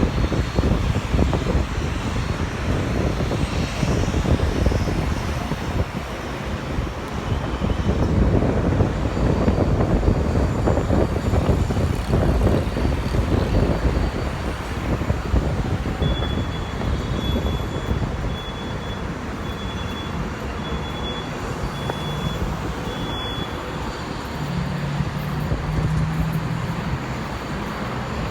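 Jet aircraft engines rumbling loudly, building to a peak about a third of the way in and then easing off. In the second half a high beep repeats about once a second, like a ground vehicle's reversing alarm.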